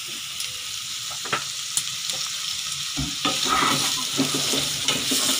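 Pork adobo and onions sizzling in a stainless steel wok while a wooden spatula scrapes and stirs through the pieces. There are a few sharp taps of the spatula, and the stirring grows louder about three seconds in.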